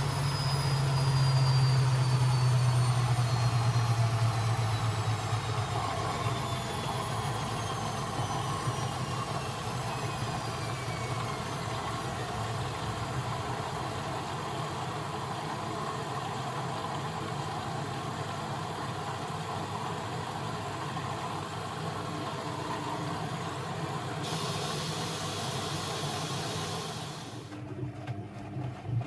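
Constructa Energy 1000s washing machine's drum motor winding down from a spin, its whine falling steadily in pitch while the low hum eases off. Near the end a hiss comes in for a few seconds and cuts off suddenly, leaving the machine running more quietly.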